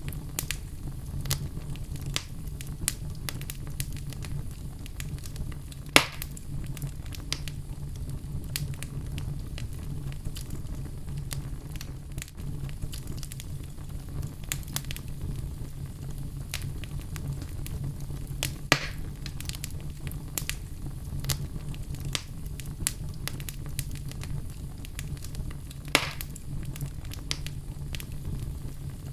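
Wood fire burning in a fireplace: a steady low rumble with frequent small crackles and a few louder pops, the biggest about six seconds in, near the middle and near the end.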